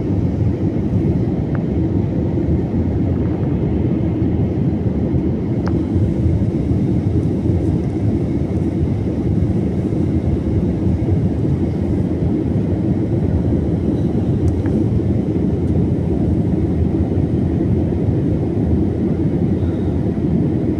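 Airplane engine noise during takeoff: a steady, loud, deep rumble.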